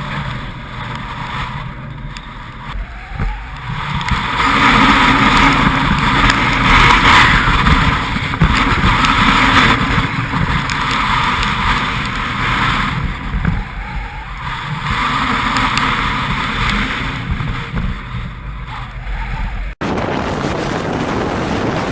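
Storm-force wind gusting and buffeting the microphone, swelling to its loudest from about four seconds in and easing again; near the end it cuts abruptly to a thinner, hissier rush of wind.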